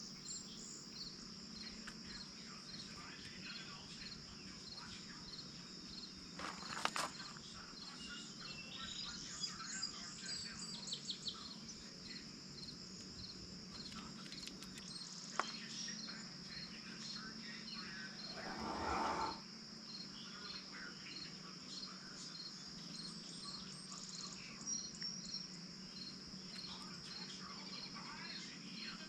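Faint insects chirping: a steady high trill with a regular chirp a little under once a second. There is a short click about a quarter of the way in and a brief noise about two-thirds through.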